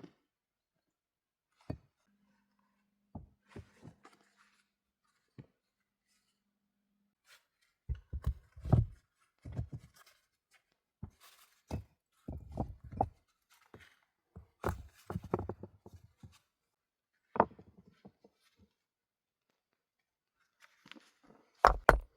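Irregular knocks and thuds, some coming in quick clusters with deeper thumps among them and short pauses between, and a faint steady low hum for a couple of seconds near the start.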